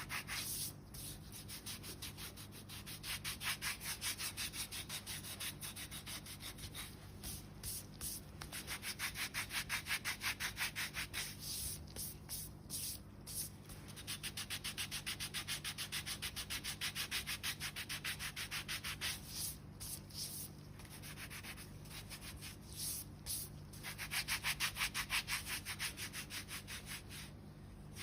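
A foot file rasping on the dry, tough skin of a sole in quick back-and-forth strokes, in runs broken by short pauses, filing the dead skin down.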